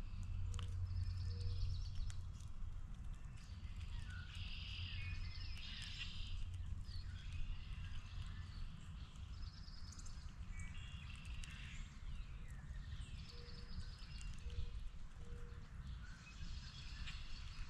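Several wild birds calling and chattering in short repeated phrases, over a steady low rumble, with a few scattered clicks.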